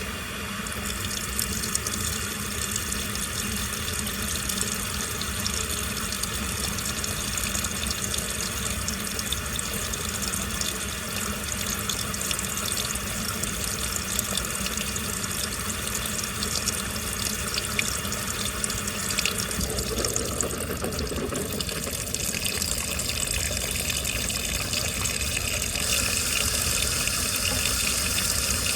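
Washing machine running with water rushing and splashing steadily inside the drum. The sound changes about 20 seconds in and gets a little louder near the end.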